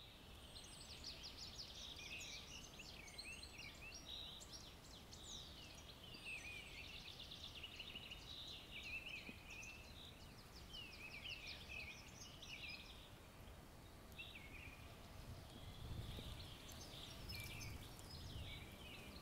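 Faint woodland birdsong: several small birds chirping and trilling throughout, over a low, steady background of outdoor noise.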